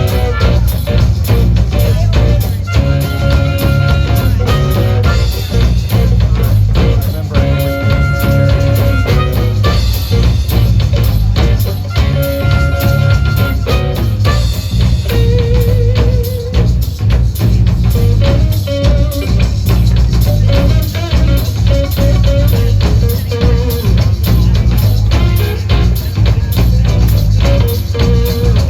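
Live blues band playing an instrumental break: a drum kit keeps a steady beat under held lead-instrument notes, one of them wavering with vibrato about fifteen seconds in.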